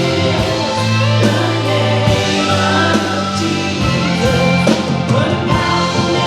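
Live worship band playing a song, with sustained bass notes, drums and guitar, and singing.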